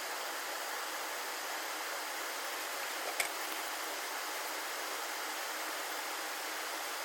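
Steady, even hiss with one sharp click about three seconds in.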